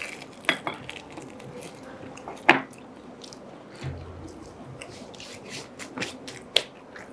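Close-miked eating sounds: wet chewing and biting of food, broken by a few sharp clicks, the loudest about two and a half seconds in and another near the end.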